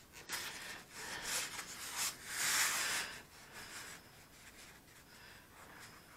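Hands rubbing and pressing tape down over a foam wing core: a few short brushing rubs in the first three seconds, the longest and loudest about two and a half seconds in, then it goes quiet.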